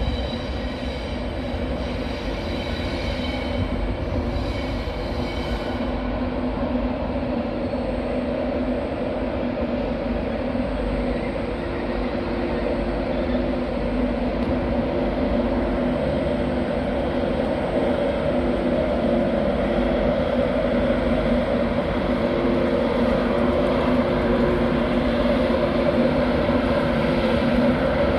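Trains moving along a terminus platform, a steady rumbling drone with two held low tones that grows louder toward the end. Fainter high-pitched tones sound through the first six seconds, then stop.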